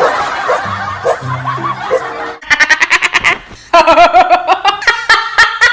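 Bursts of quick, rhythmic laughter over background music, beginning about two and a half seconds in.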